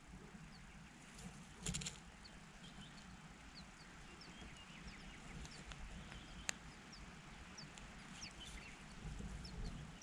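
Faint, short high bird chirps scattered throughout over a low background rumble, with a brief rustle a little under two seconds in and a single sharp click past the middle.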